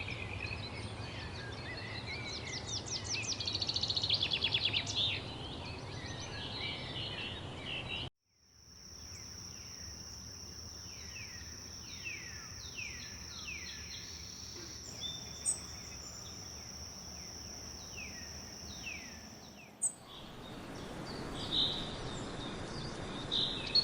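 Forest birdsong in three short clips. First a bird singing with a fast trill; then, after a brief break, a steady high-pitched insect drone with a bird's repeated downward-sliding calls; then more bird calls near the end.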